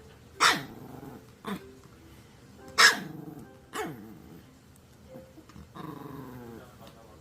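Maltese dog giving four short, sharp barks about a second apart, with growling in between.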